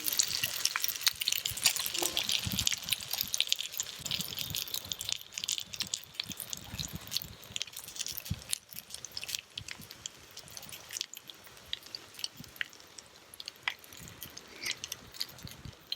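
A pan of gyoza sizzling with sharp crackles and spits, loud at first and dying down over the following seconds.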